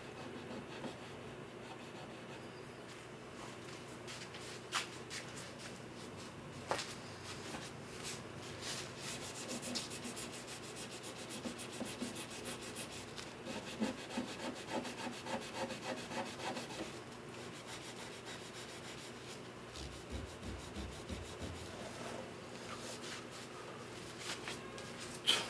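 Wood of a guitar being sanded by hand: faint, quick back-and-forth rubbing strokes, busiest through the middle, with a couple of light knocks near the start.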